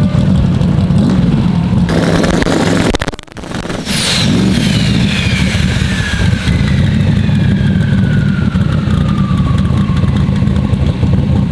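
Twin-turbo big-block Chevrolet V8 running. About three seconds in the sound briefly drops away, then a high turbo whistle starts and falls slowly in pitch over several seconds as the turbochargers spin down, while the engine runs on underneath.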